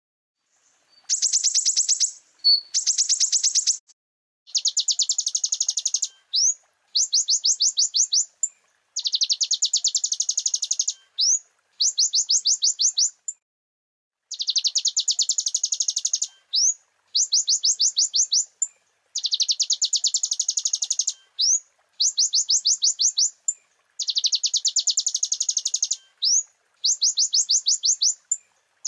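Purple-throated sunbird (kolibri ninja) singing in repeated bursts of rapid, high chattering trills, each about one to two seconds long with short pauses between. The song is packed with imitated phrases of other birds.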